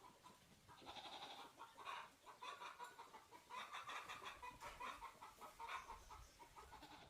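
Chickens clucking faintly in short bouts of rapid calls, one about a second in and a longer run through the middle.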